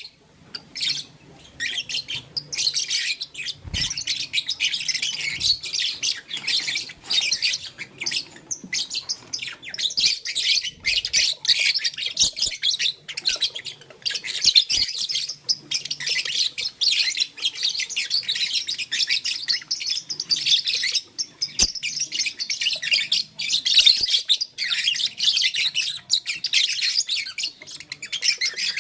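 Lovebirds chattering: a dense, nearly unbroken stream of rapid high-pitched chirps, with a couple of faint knocks.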